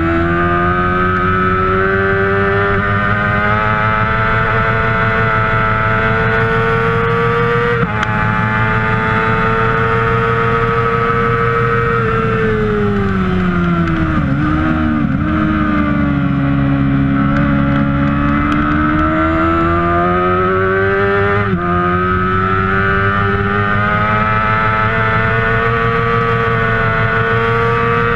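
Kawasaki 600 cc race motorcycle engine at high revs. The pitch holds high with a brief break for a gear change about eight seconds in, then drops steeply through quick downshifts around the middle, and climbs again as the bike pulls out.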